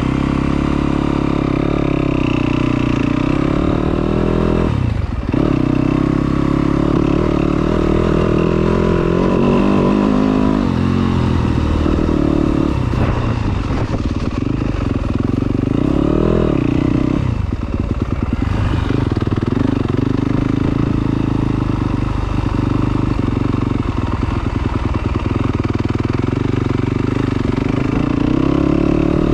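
Yamaha YZ250 two-stroke dirt bike engine riding a trail. Its pitch rises and falls continually with the throttle, dipping sharply about five seconds in and again around sixteen to eighteen seconds in.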